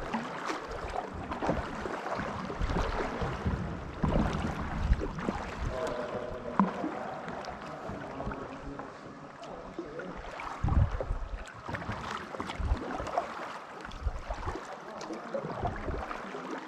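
Kayak paddling: paddle strokes and water splashing, with irregular low knocks and small clicks.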